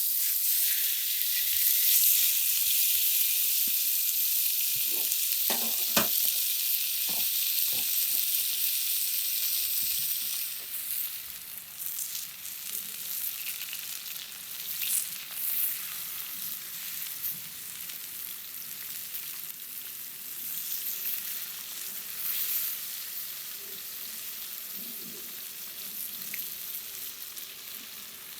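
Food frying in a hot pan over a campfire: a loud sizzle that eases after about ten seconds to a steadier, quieter frying. A few light knocks of a utensil against the pan come about five to eight seconds in.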